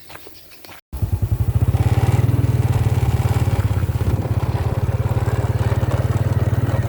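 Motorcycle engine running steadily as the bike rides along, starting about a second in after a few faint clicks and a brief dropout.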